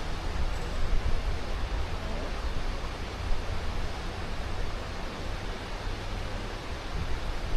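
Steady rush of a fast-flowing mountain river, an even wash of water noise with a low rumble underneath.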